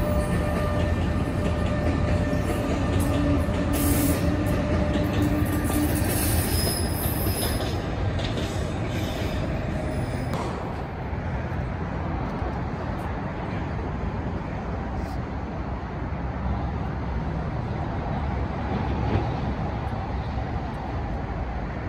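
Electric passenger train moving on the tracks: steady rumble of wheels on rail, with a set of steady whining tones over the first few seconds and a brief high squeal about seven seconds in. The sound eases off a little after about ten seconds.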